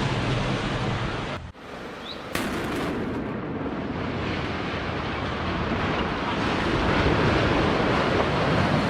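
Steady rumbling roar of an apartment block collapsing in an explosive implosion. It drops away briefly about a second and a half in, then comes back at the same steady level.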